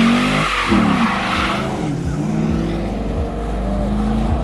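A car engine revving up and down hard with spinning tyres squealing in a burnout. The tyre noise dies away about a second and a half in while the engine keeps running at higher revs.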